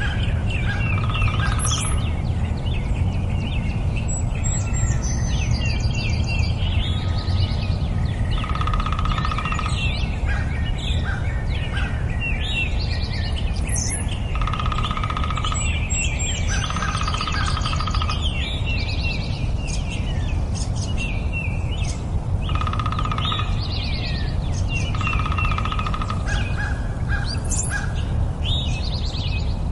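Nightingale singing a varied song of fast chirps and trills, broken by repeated held whistled notes about a second long. A steady low rumble runs underneath.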